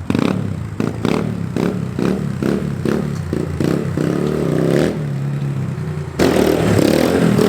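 SSR 150 dirt bike's single-cylinder four-stroke engine running with a regular knocking clatter, then revving, with a sudden louder surge of throttle about six seconds in.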